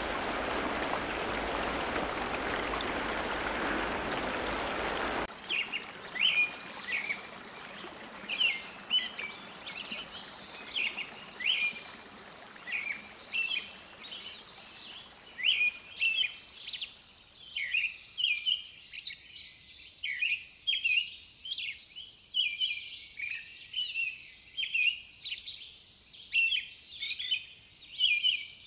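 Steady rushing water for about the first five seconds, then an abrupt change to birds chirping: short calls repeated every second or so over a quiet outdoor background.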